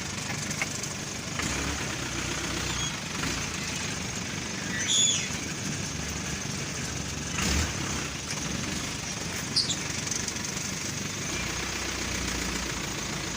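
A vehicle engine running steadily, with a few brief high bird chirps over it.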